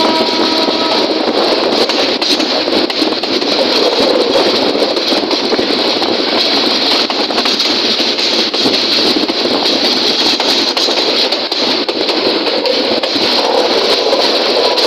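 Train in motion: a loud, steady running noise full of fine rattles and clicks, with brief faint tones near the start and near the end.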